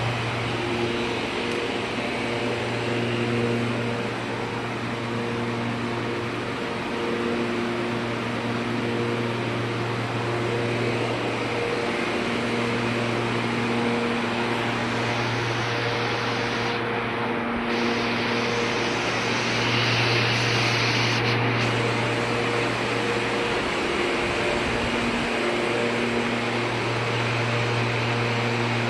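Air-cooled scroll water chiller running: steady rush of the condenser fans over a low hum from its Copeland scroll compressors, with faint higher tones that swell and fade every few seconds.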